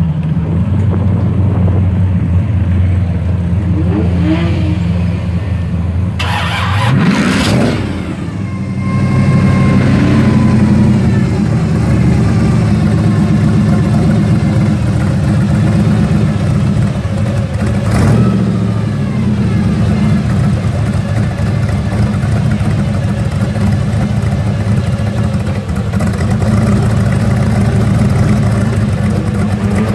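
Hot-rodded vintage panel van's engine, with intake stacks through the hood, running at a loud idle. It is revved once about seven seconds in, with a rise and fall in pitch, and blipped sharply again around eighteen seconds.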